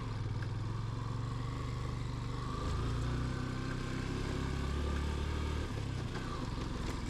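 Motorcycle engine running while riding, its note shifting a few times with the throttle, under steady wind and road noise.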